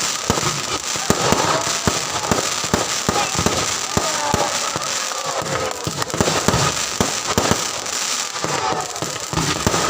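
Fireworks going off in rapid, irregular succession: many sharp bangs and crackles, several a second, over a continuous noisy background.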